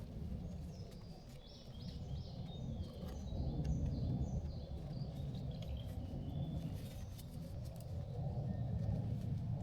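Small birds chirping over and over in woodland, short high calls coming in quick runs, over a steady low rumble of background noise.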